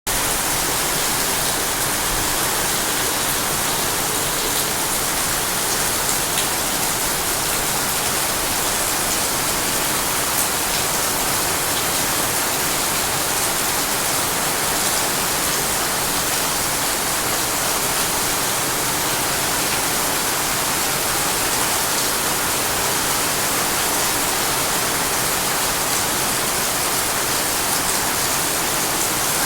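Steady heavy rain: an even, unbroken hiss with a few faint drop ticks.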